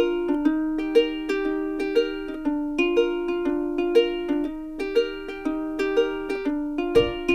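Background music: light plucked-string tune, ukulele-like, with a steady beat of regularly spaced notes; a low bass layer comes in near the end.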